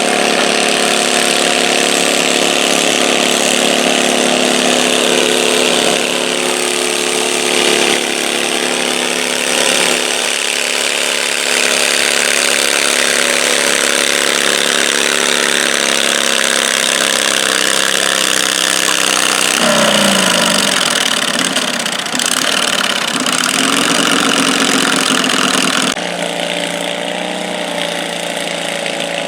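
Garden pulling tractor's engine running loudly at a steady speed. About two-thirds of the way through its pitch falls away, then it picks up again.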